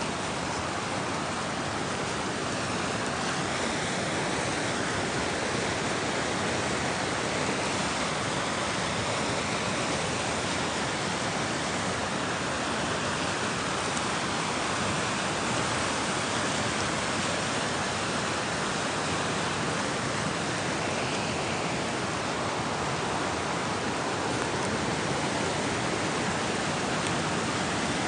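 Fast-flowing, high river water rushing: a steady, unbroken roar of whitewater.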